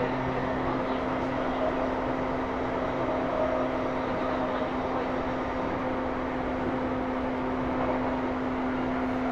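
Running noise of a JR East E235-1000 series electric train, heard from inside a motor car: a steady wash of wheel and rail noise with a constant hum, some lower tones fading out about a second in.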